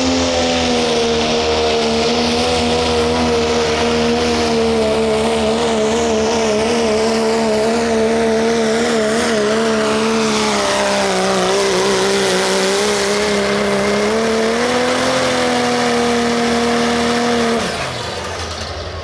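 Limited Pro Stock diesel pickup truck engine running flat out under load while pulling the sled, its pitch wavering. The engine sags lower in the middle of the run as the sled load builds, picks back up, then drops off sharply near the end as the driver lets off.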